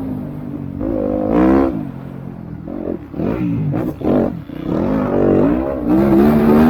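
Motocross bikes racing, engines revving up and falling back again and again as the riders open and shut the throttle, with several sharp swells in pitch.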